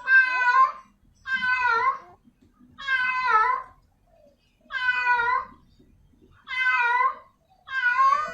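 Female cat in heat meowing repeatedly to call a male: six loud meows, each under a second long, coming about every second and a half.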